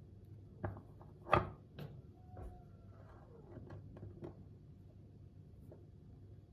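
Kitchen utensils and dishes being handled: a scatter of light clicks and knocks, the loudest about a second and a half in, with a faint scraping slide in the middle.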